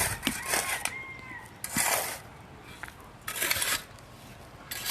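Shovel digging into soil at the gate, four scraping strokes about a second and a half apart.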